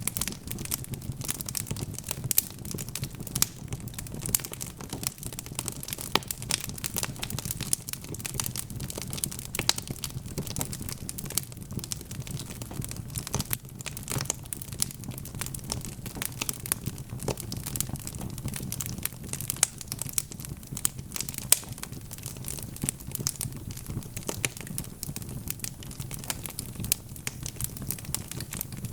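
Wood fire crackling, with dense irregular pops and snaps over a low steady rumble.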